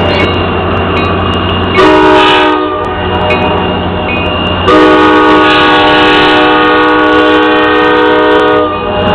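Locomotive air horn sounding a chord: a short blast about two seconds in, then a long blast held for about four seconds, over the steady rumble of the train.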